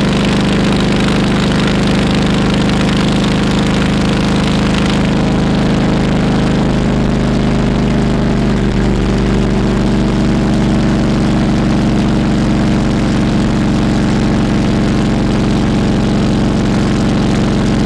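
Harley-Davidson Road King Classic's V-twin engine and exhaust running steadily at a low, even speed. A high hiss over it drops away about five seconds in.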